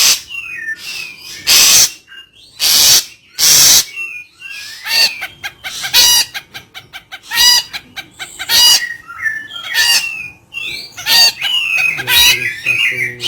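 A bird calling loudly: harsh screeches about once a second at first, then a run of ringing, buzzy calls with quick whistled rising and falling notes and chatter between them.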